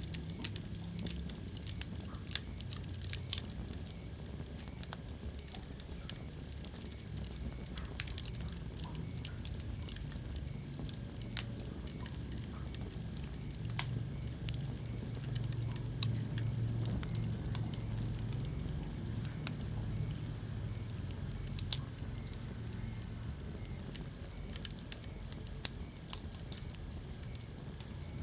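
Wood fire burning in a fireplace: a steady low rumble and hiss of the flames with scattered crackles and pops, a few of them sharp louder snaps.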